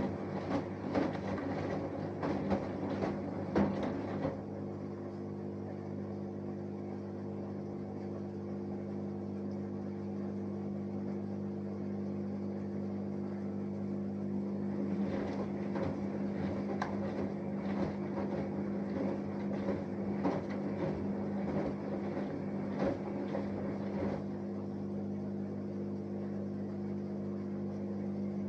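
Samsung Eco Bubble washing machine with an inverter motor running a wash, a steady hum with several fixed tones. Irregular clicks and knocks come through in the first few seconds and again in the middle stretch.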